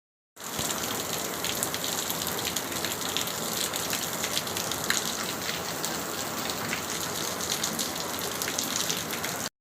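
Heavy rain falling, a steady hiss dense with drop ticks, that cuts off abruptly near the end.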